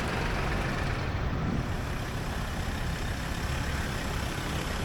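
Tractor engines running with a steady, even rumble.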